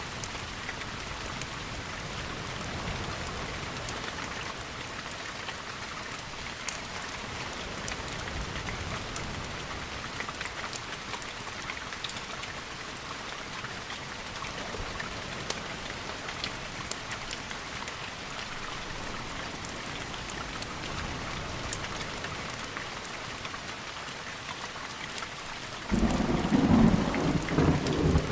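Steady rain with scattered sharp ticks, then a sudden loud clap of thunder near the end that breaks into a deep rumble.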